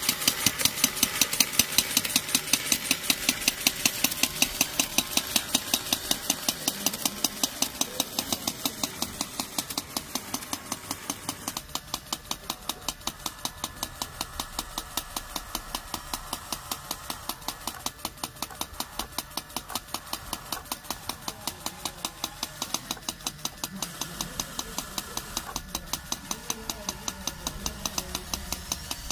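A small homemade metal machine running, its grinder-gear drive making a steady, even rhythm of sharp mechanical clicks, several a second, that grows somewhat quieter over the first part.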